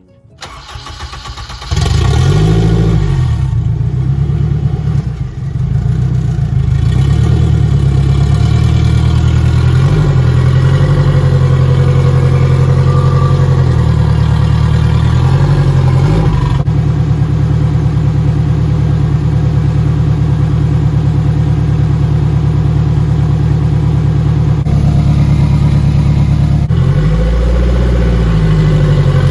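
Race car engine starting, then running loudly with the revs rising and falling several times, as when the car is driven up onto a tow dolly.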